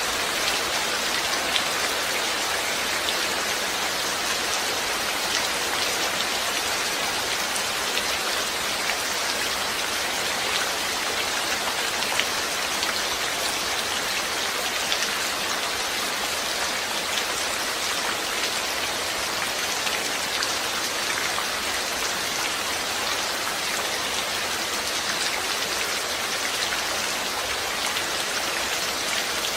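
Steady rain falling, a constant hiss with many small drop impacts pattering on a surface.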